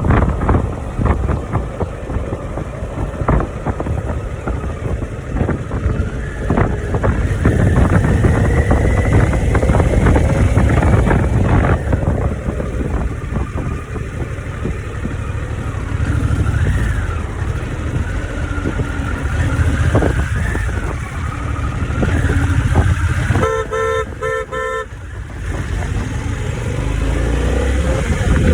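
Harley-Davidson motorcycle engine running under way, with wind rush on the microphone. Near the end a vehicle horn sounds in a quick run of short beeps, and then the engine pitch rises as the bike accelerates.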